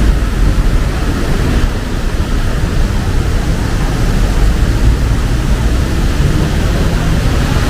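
Heavy rain falling steadily, with a low rumble of traffic underneath.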